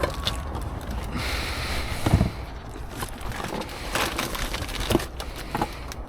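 Scattered knocks, scrapes and clatter of salvaged items being handled and put away, with a heavier thump about two seconds in, over a steady low rumble.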